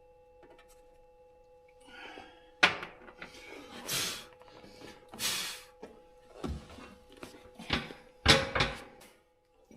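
Sharp metal clunks and knocks with short scraping rustles from work on a Chevrolet engine's valve cover as it is taken off, over a faint steady hum. The first knock comes nearly three seconds in and the loudest near the end.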